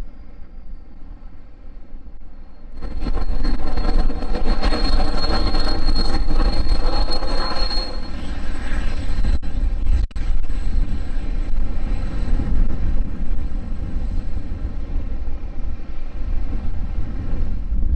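Jet aircraft engines with a steady high-pitched whine over a loud rush, starting abruptly about three seconds in; the whine drops away around eight seconds while the rush continues. Heavy wind rumble on the microphone underneath.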